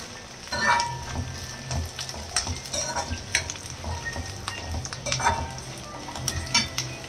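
Garlic cloves sizzling in sesame oil in an aluminium kadai, frying until soft, while a metal spoon stirs them. The spoon scrapes and knocks against the pan at irregular moments.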